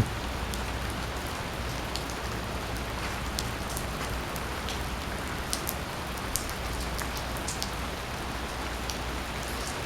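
Steady rain falling: an even hiss with scattered sharp ticks of individual drops striking close by.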